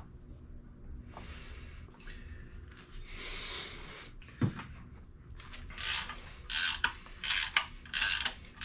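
Hand ratchet clicking in a run of short repeated strokes that starts a little past halfway, turning over the Honda B16B crankshaft to check that it spins smoothly in its freshly torqued main bearings.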